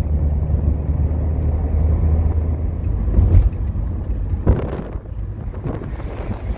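Car driving along, a steady low engine and road rumble, with a couple of short knocks about halfway through.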